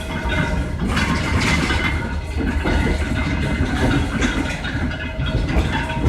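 Train engine running steadily, a continuous low rumble with a few steady tones over it.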